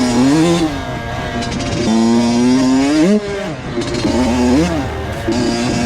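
Honda CR85 85cc two-stroke dirt bike engine under riding load. It holds a steady note, then revs up and drops off sharply three times as the throttle is worked and gears are changed.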